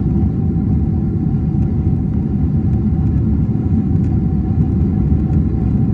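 Steady low rumble inside a Boeing 767 airliner cabin during the landing: engines and airflow, with a faint steady hum above it.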